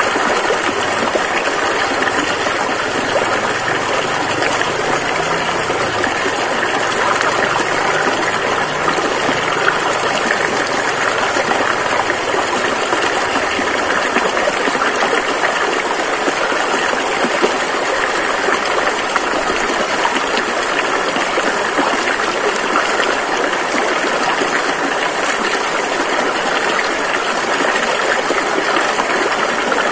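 Rushing river water flowing steadily over rocks.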